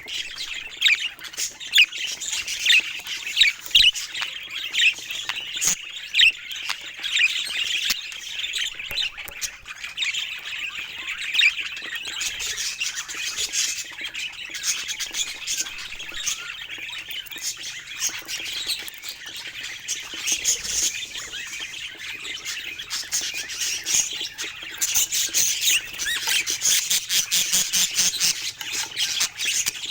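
Budgerigars chattering continuously, a steady stream of quick chirps and squawks that grows busier and shriller near the end.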